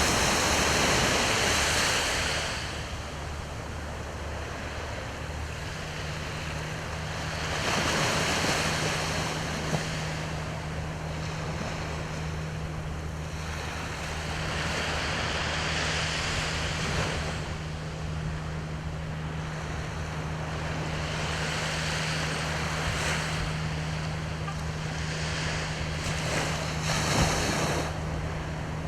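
Gentle sea waves breaking on the shore and washing back, swelling and easing every few seconds, over a steady low hum.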